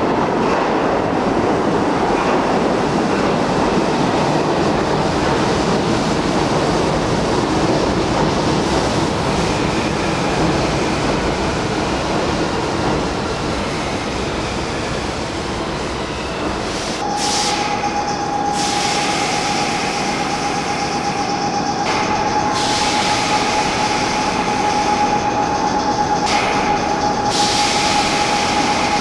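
Marunouchi Line subway train running on the rails, a loud steady rumble. About two-thirds of the way through, a steady high-pitched tone comes in and holds to the end, with hissing over it.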